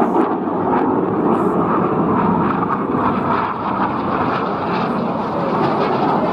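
Fixed-wing aircraft flying at an airshow, its engine noise loud and steady throughout.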